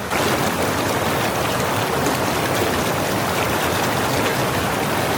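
Fast-flowing mountain stream in spate rushing over half-submerged rocks, a steady, dense rush of water.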